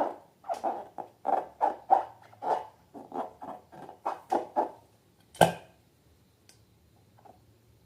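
Slime being squeezed and squished by hand: a quick run of short wet squelches, about two to three a second. A single sharp click comes about five and a half seconds in, and the squelching stops.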